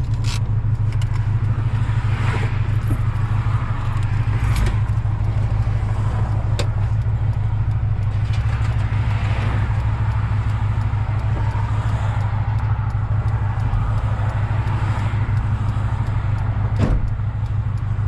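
Honda Integra's four-cylinder engine and road noise while driving: a steady low drone, with a few brief knocks and rattles.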